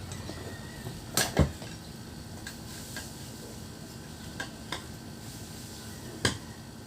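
A handful of sharp metal clanks and knocks, the loudest about a second and a half in, with a few lighter ones later, as metal tools or parts are handled during wheel repair work.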